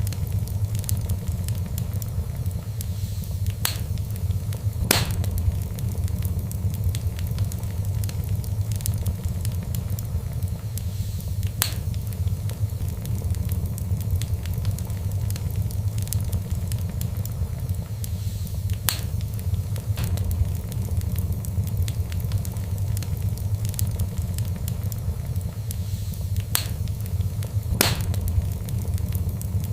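Fireplace fire crackling: a steady low rumble under constant faint crackle, with about half a dozen sharp, loud pops spread through.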